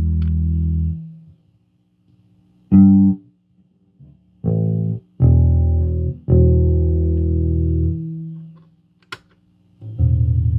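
Fender Jazz Bass played through an amp with an MXR M175 digital delay in line. A held note fades out about a second in, followed by a few separate plucked notes, the last ringing out for about two seconds, then a short click, and near the end a new note with a fast, even wobble from the unit's modulation.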